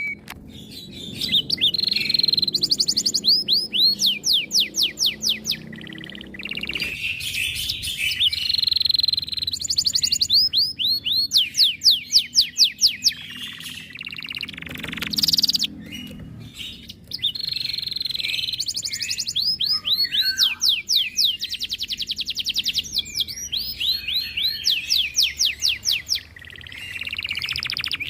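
Domestic canary singing a long, continuous song of fast trills: runs of rapidly repeated sweeping notes, the phrases changing every few seconds.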